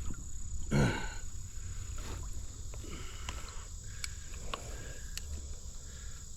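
Steady low wind rumble on the microphone, broken about a second in by a short sound falling in pitch, then a few light clicks and knocks, typical of handling on a kayak.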